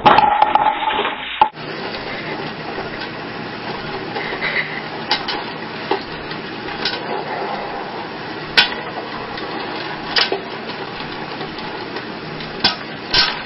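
Scattered clinks and knocks, like dishes or utensils being handled, over a steady background noise.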